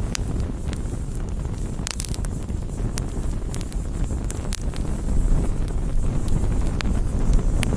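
Campfire burning: burning wood crackling with scattered sharp pops, several close together about two seconds in and again near the middle, over a steady low rumble like wind on the microphone.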